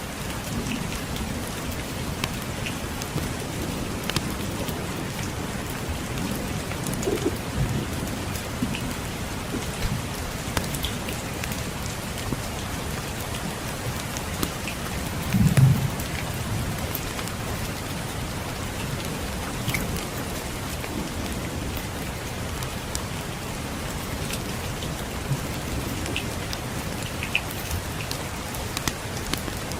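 Steady rain, with scattered small sharp ticks and crackles, and a brief low rumble of distant thunder about halfway through.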